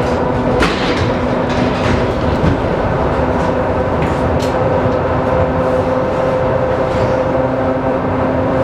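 ER2K electric multiple-unit train running, heard from inside the passenger saloon: a steady rumble with a constant hum and a few sharp clicks.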